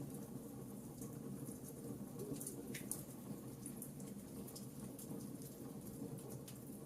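Wood fire in a fireplace crackling, with frequent small irregular pops and snaps over a low steady rumble of the burning logs.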